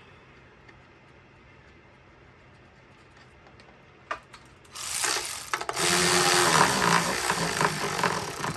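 Quiet at first; then, about halfway through, a power tool starts running loudly with a rattly, irregular texture and keeps going.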